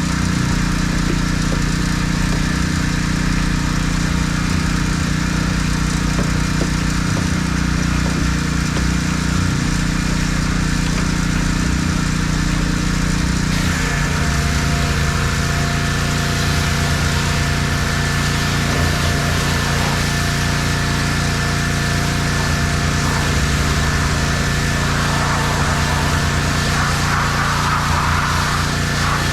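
An engine running steadily, its tone shifting about halfway through.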